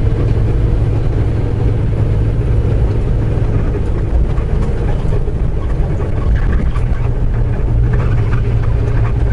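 Steady drone of a semi truck's diesel engine with road noise while driving along.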